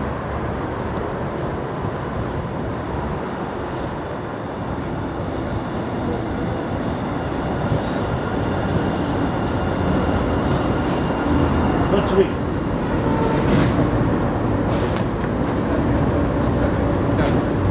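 MBTA Blue Line subway train running into the station, its rumble growing steadily louder. From about seven seconds in, the steel wheels squeal with thin high-pitched tones, and a few sharp clicks come near the end.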